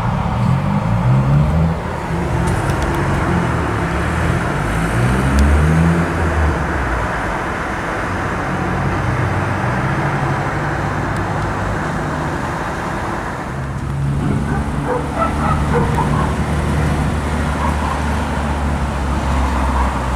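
Cars driving past on a road, engine notes climbing in pitch as they accelerate and change gear, with another vehicle's engine coming up about two thirds of the way through.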